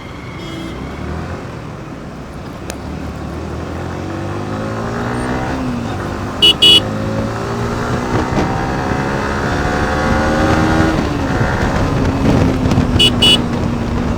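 Yamaha R15 V4's 155 cc single-cylinder engine pulling away and accelerating, its pitch climbing and dropping back at the gear changes. A horn gives short double beeps twice, about midway and near the end.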